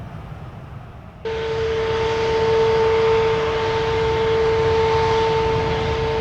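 Jet airliner engines: a low rumble, then about a second in a sudden louder rushing noise with a steady high whine that holds on.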